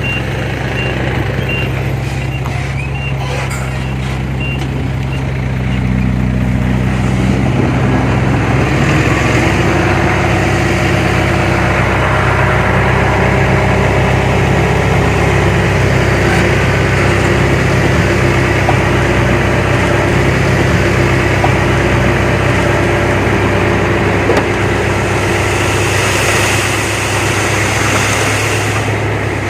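Heavy diesel earth-moving machinery running, with a reversing alarm beeping steadily for the first five seconds or so. About six seconds in, the engine note rises and then holds under load, and a hiss joins near the end.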